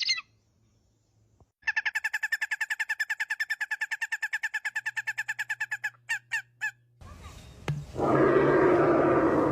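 A bird's fast trill of evenly repeated notes, about ten a second, lasting about four seconds and ending in three separate notes. Then, in a different recording, a loud harsh rasping call for about a second and a half near the end.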